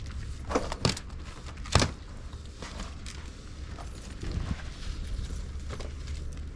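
Three sharp knocks, about half a second, one second and two seconds in, the last the loudest, over a steady low hum.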